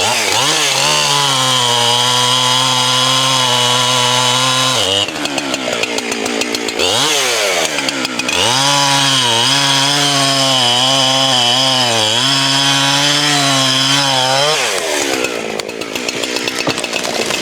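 Two-stroke chainsaw cutting wood, its engine note held steady under load. About five seconds in it comes out of the cut, revs up briefly, and goes back in, coming out again near the end.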